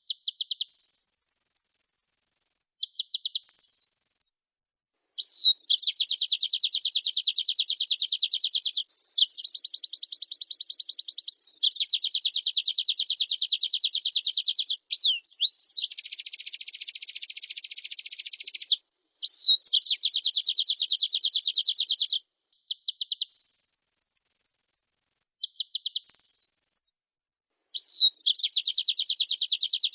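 White-eye (pleci) singing a long, fast song in rapid phrases of two to three seconds each, with short gaps between them. Some phrases are pitched very high.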